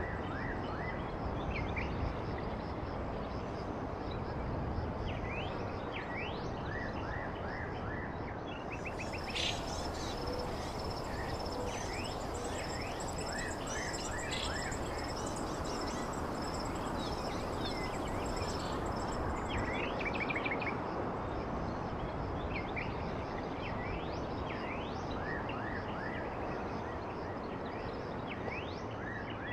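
Birds chirping and trilling in short, repeated calls over a steady background hiss of outdoor noise. A thin, high steady tone joins in for about ten seconds in the middle.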